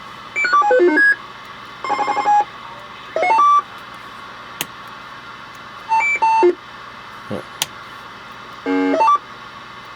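CB roger beep tones from an SD-card roger beep box's small built-in speaker: five short electronic beep sequences a second or two apart, each a different tone pattern, as the box is stepped through its sounds. Two sharp clicks fall between them.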